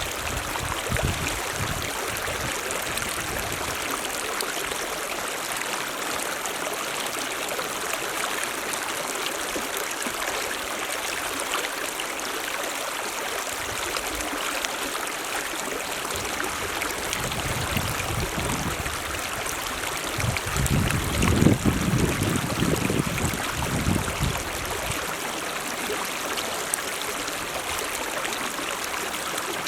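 Mountain stream running in a steady, continuous rush of water. Low rumbles come and go, strongest about two-thirds of the way through.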